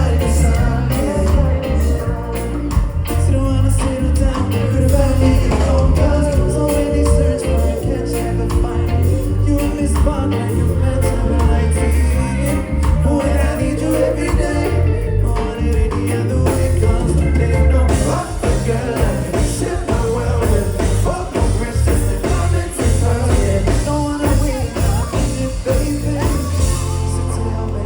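Live reggae-pop band performing a song: bass, drums and guitar with singing over a steady, heavy bass beat.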